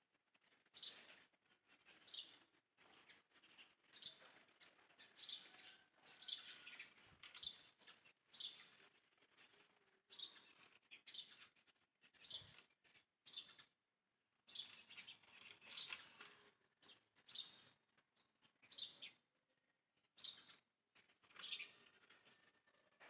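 Quiet, high-pitched chirping calls repeating about once or twice a second, each short and dropping slightly in pitch, with a couple of short pauses.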